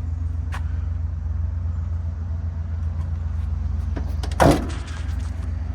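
A vehicle engine idling with a steady low rumble, and one short, loud sound about four and a half seconds in.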